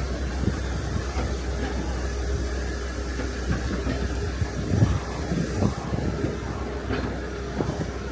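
Heavy diesel engine of a rotator tow truck running steadily with a deep drone, with scattered knocks and clunks; a louder thump about five seconds in.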